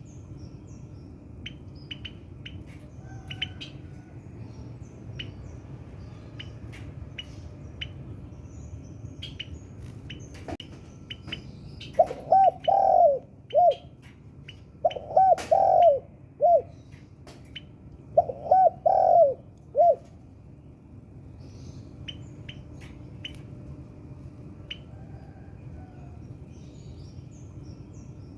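Spotted dove (tekukur) cooing: three phrases of several arched coos each, in the middle stretch, with short high chirps of small birds scattered throughout.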